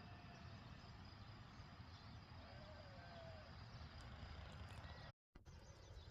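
Near silence: faint outdoor ambience with a low steady rumble and a few faint, short gliding calls, with a brief dropout near the end.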